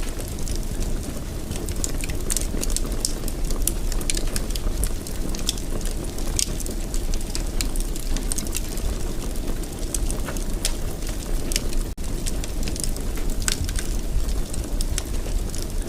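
Wood fire in a fireplace crackling: irregular sharp pops and snaps over a steady low rumble of the flames. The sound drops out for an instant about twelve seconds in.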